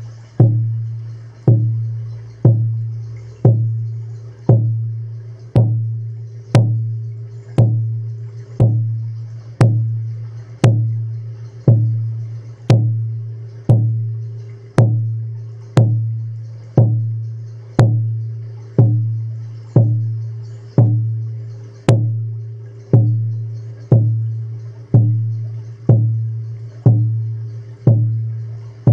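A deep drum struck in a slow, steady beat of about one stroke a second, each boom fading before the next.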